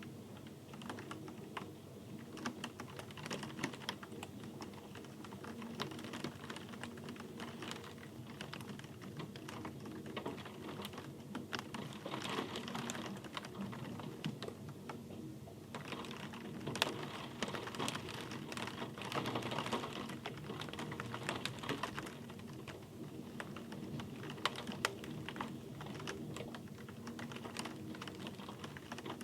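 Rain falling, heard as dense, irregular ticks of individual drops over a steady hiss, swelling slightly now and then.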